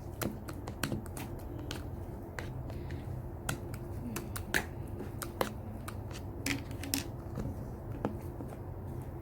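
Slime being squeezed and pressed by hand, making irregular sharp clicks and pops, a few a second, over a steady low hum.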